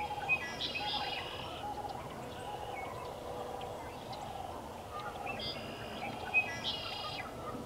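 Wild birds calling: two bursts of bright, many-toned song, one in the first couple of seconds and one near the end, over a steady run of short, lower calls repeating about twice a second. Two sharp ticks stand out, one just after the start and one near the end.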